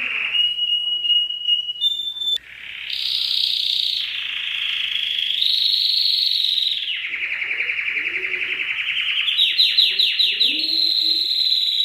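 Domestic canary singing a continuous song of rolling trills and held notes, stepping to a new pitch every second or two, with a brief break about two and a half seconds in and a fast run of rising notes near the end.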